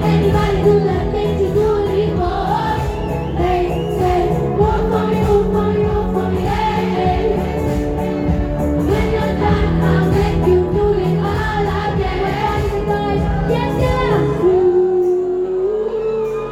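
Live pop band with a female lead singer, with drums, bass and vocals over a steady beat. About two seconds before the end, the drums and bass stop, leaving a held sung note as the song ends.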